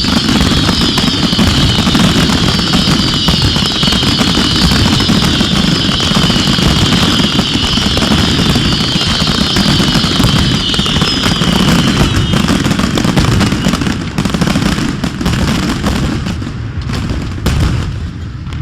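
Fireworks display at full barrage: a dense, unbroken mass of booms and crackles, with a high shrill layer over it for about the first two-thirds. Near the end it thins to separate bangs.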